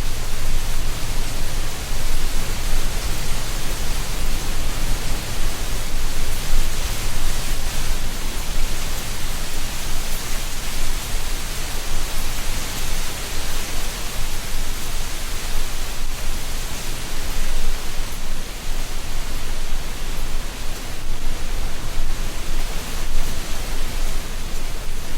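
Wind blowing through a tree canopy, rustling dry autumn leaves in a steady rush that swells and eases a little.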